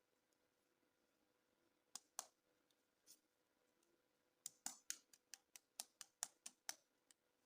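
Sharp plastic clicks and taps of toys and packaging being handled: two clicks, then a quick run of about ten, roughly four a second, and one more near the end.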